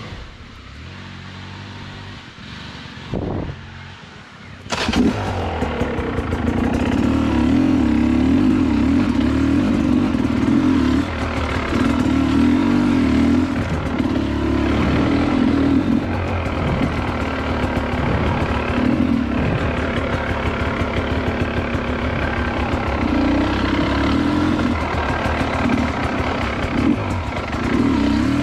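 Dirt bike engine idling quietly. About five seconds in the throttle opens sharply, and the engine then runs hard under load, revving up and down as the bike rides on.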